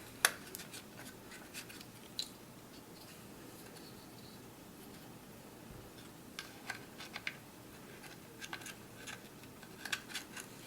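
Plastic handguard and rail-cover pieces of an airsoft rifle being handled and fitted, giving scattered light clicks and taps, the sharpest one just after the start.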